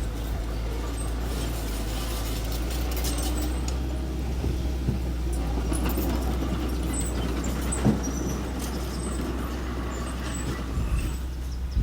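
Small construction machine's engine running steadily, with a few short metallic knocks, the sharpest about eight seconds in.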